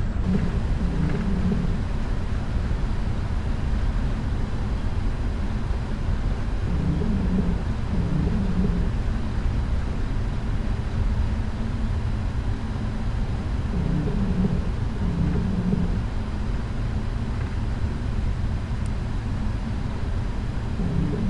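Steady low rumble of a Boeing 777-300ER's GE90 engines and cabin as the airliner taxis before take-off. A pair of short low hums repeats about every seven seconds.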